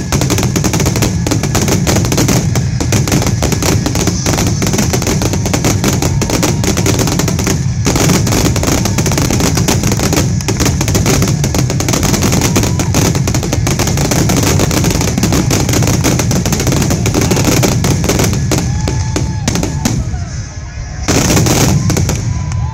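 Fireworks grand finale: a dense, rapid barrage of aerial shell bursts and crackling, one bang on top of the next with no gaps. About twenty seconds in it thins briefly, then a last loud volley goes off near the end.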